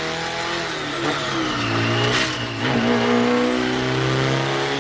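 A car engine running at fairly steady revs, its pitch dropping and settling lower about halfway through, with a thin high whine above it.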